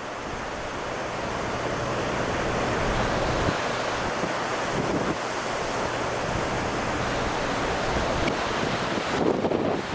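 Strong hurricane wind blowing steadily, buffeting the microphone, with gusts near the end.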